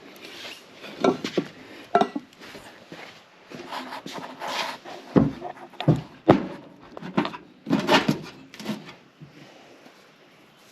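Metal parts and hand tools being handled: irregular clanks, knocks and rattles as work on fitting a turbocharger begins, loudest in the middle and quieter toward the end.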